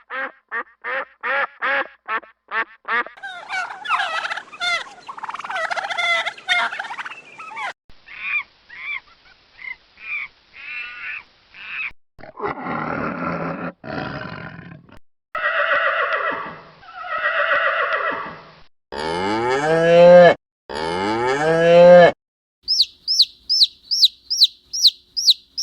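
A string of different farm animal calls, one kind after another: rapid honking and quacking fowl calls first, then harsher calls. Two long, loud, deep calls follow near the end, then a quick series of high, falling chirps.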